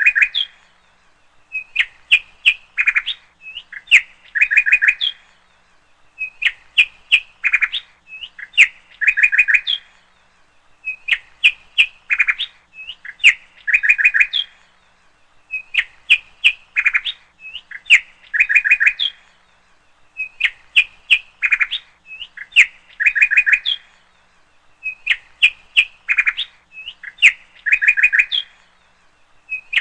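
Birds chirping: clusters of quick high chirps that come in a regular, repeating pattern about every two seconds.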